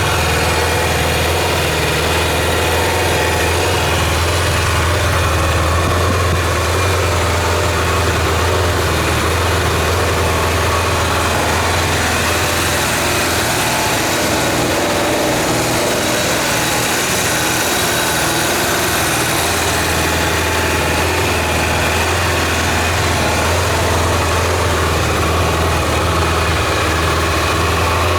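Kawasaki GPZ550 (ZX550A) air-cooled inline-four engine idling steadily; the low hum thins for a few seconds midway, then settles back.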